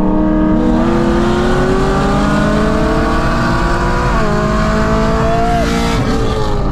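Supercharged Chevy SS V8 under hard acceleration, heard from inside the cabin. The engine note climbs steadily, drops sharply about four seconds in at a gear shift, climbs again, then falls away near the end as the throttle comes off.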